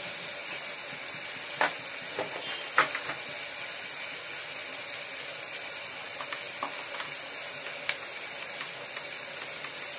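Chopped onions and tomatoes frying in oil and butter in an aluminium pressure cooker: a steady sizzle. A few sharp clicks stand out, two of them about two to three seconds in and one near the end.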